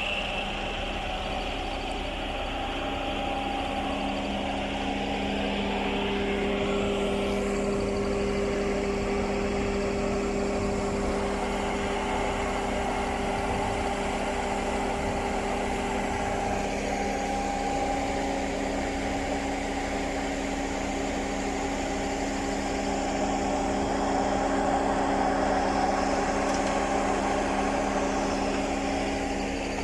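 Putzmeister 36-4 truck-mounted concrete pump running with a steady machine hum, with no pumping rhythm. A further steady tone joins about five seconds in.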